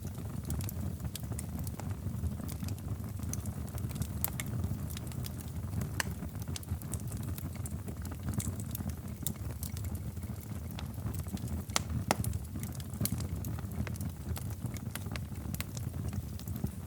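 Wood fire crackling in a fireplace: a steady low rumble of the flames with frequent irregular snaps and pops, a louder pop about twelve seconds in.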